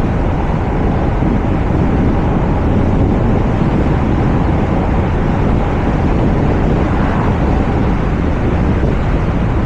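Wind rushing over the microphone of a camera mounted on the roof of a moving car, with the car's driving noise underneath: a steady, loud, low rumble that does not let up.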